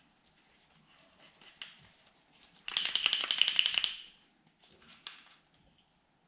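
A touch-up paint pen being shaken hard, its mixing ball rattling in rapid clicks, about nine a second, for just over a second near the middle. A few faint handling clicks come before and after.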